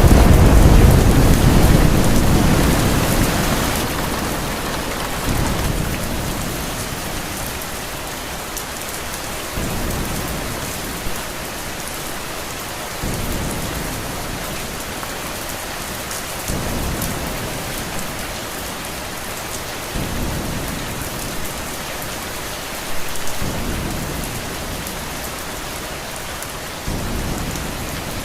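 Steady rain falling, with a thunder rumble at the start that fades away over about four seconds. Softer low rumbles then swell up every few seconds under the rain.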